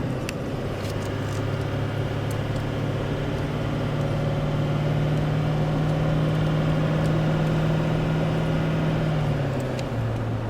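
Engine and road noise of a vehicle on the move, heard from inside the cab. The engine's hum climbs slowly in pitch and drops again near the end.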